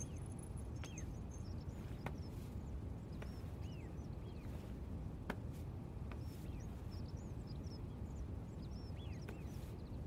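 Small birds chirping in short scattered calls over a steady low background hum, with a few faint light clicks now and then.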